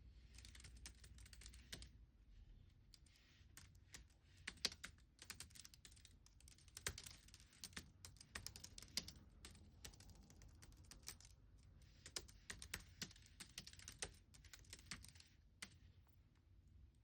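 Computer keyboard typing, quiet, in irregular bursts of quick keystrokes with short pauses between them.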